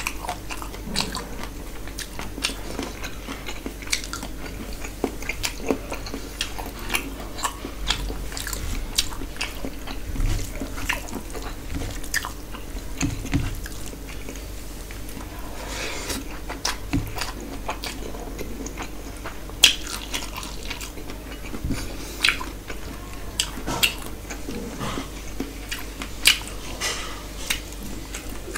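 A person chewing mouthfuls of rice and curry eaten by hand, with many short, wet mouth clicks throughout.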